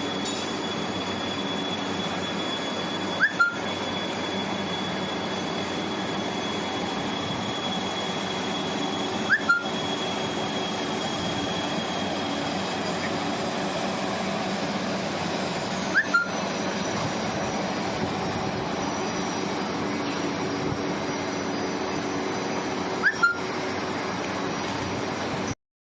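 Xinghuo CW6163 horizontal engine lathe running with a steady mechanical hum of several tones. Four times, about every six and a half seconds, there is a double click with a short rising squeak.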